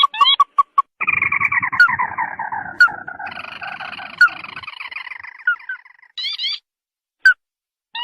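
Lure-call recording of a crake (burung tikusan) calling. Quick rising notes give way about a second in to a long descending chattering trill of several seconds, with sharp single notes over it. After a short pause, more rising notes come in near the end.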